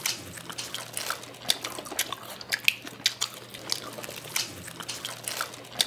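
Close-miked chewing of dubu-bap, a fried tofu pouch stuffed with rice and topped with chili sauce: wet mouth clicks and smacks, a few a second at an uneven pace.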